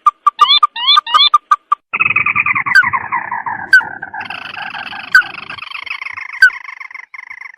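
Crake calls, the 'tikusan mata merah' used as an Indonesian bird-lure recording. The first two seconds hold a run of quick, clipped pips with short hooked notes; then comes a long, falling, chattering trill, with sharp single notes breaking in about once a second.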